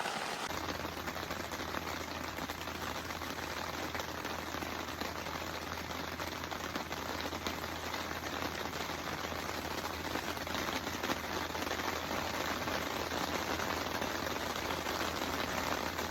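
Heavy rain falling steadily, a dense patter of many small drop impacts, with a steady low hum coming in about half a second in.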